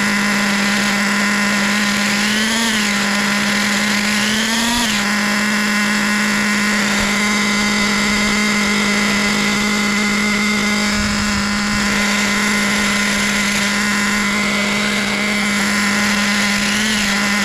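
Kyosho GT1 nitro RC car's glow engine running at a steady, high idle, its pitch swelling up briefly twice a few seconds in and once near the end. The idle is so high the car drives itself, which points to the idle stop screw being set too high.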